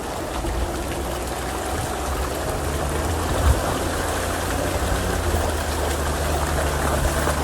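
Chevrolet Suburban's engine running at low revs under a steady rushing of water, with a single knock about three and a half seconds in.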